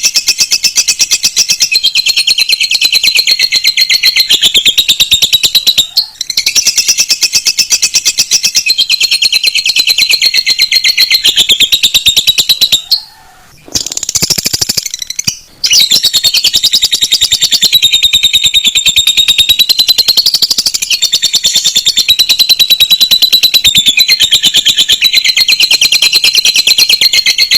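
Canary and lovebird song: loud, continuous, very fast chattering trills, high-pitched, broken by short pauses about six seconds in and again around halfway.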